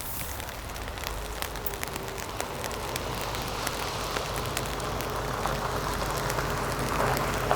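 Steady rain, with many separate drops ticking sharply against a surface.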